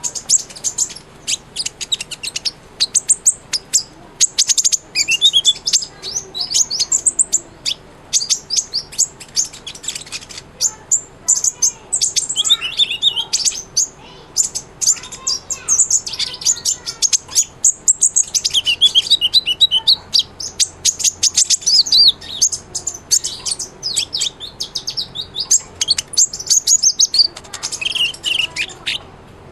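A kolibri ninja sunbird singing in full song: a fast, near-continuous stream of high, thin chirps, ticks and twittering trills, with only brief pauses.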